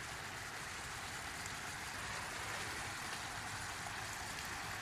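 Ground beef and onions sizzling steadily in butter in a pan over a fuel-tab stove.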